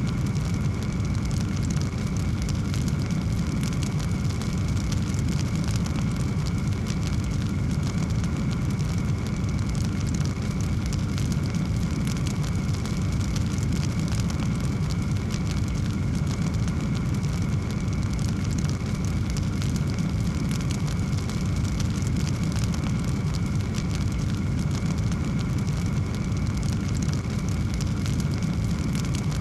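Wood fire burning in a fireplace: many small crackles and pops over a steady low rumble.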